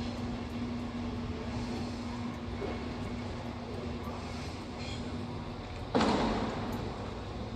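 Steady rumble and low hum of a departing Class 390 Pendolino electric train, the hum fading out about five seconds in. A sudden loud burst of noise about six seconds in dies away over about a second.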